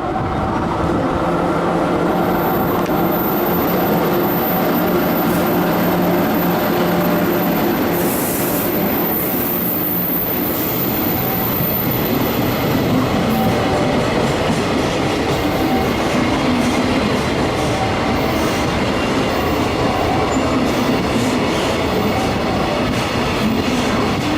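Freight train hauled by an EF66 electric locomotive passing through a station: a long, loud, steady rumble of steel wheels on rail with clattering over the track and some wheel squeal. A steady hum runs under it for the first ten seconds or so, then fades into the wagon noise.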